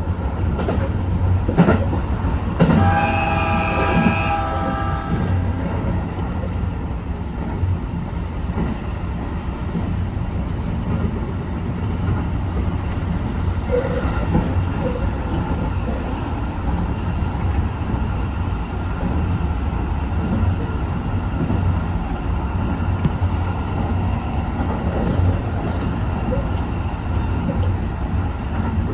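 HB-E210 series hybrid diesel train running along the line with a steady low rumble and scattered rail clicks. About three seconds in, a horn sounds as a held multi-tone blast lasting roughly three seconds.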